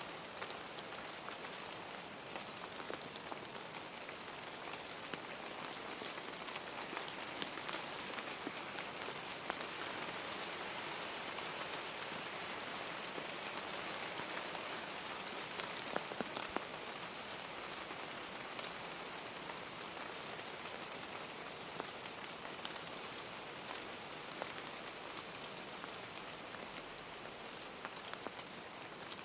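Steady rain falling, an even hiss with the sharp ticks of single drops scattered through it.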